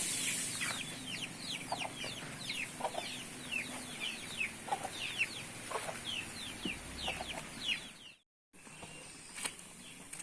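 Chickens calling: many quick, high chirps sliding downward, with a few lower clucks, over a steady hiss. The sound cuts out briefly about eight seconds in, then resumes more quietly.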